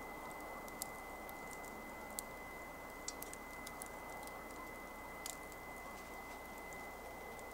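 Wood campfire crackling: irregular sharp pops and snaps, a few every second or two, over a steady hiss.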